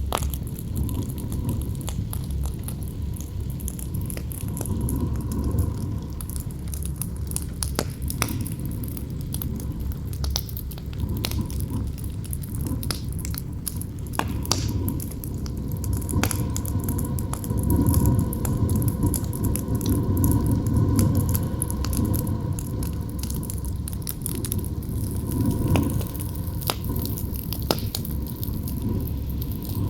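Campfire crackling and popping with sharp, irregular snaps over strong wind that rumbles low and carries a faint howling tone. A gust swells about two-thirds of the way through.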